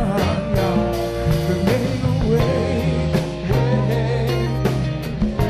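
Live soul band playing: a steady drum-kit beat under bass, guitar and held chords, with some wordless singing.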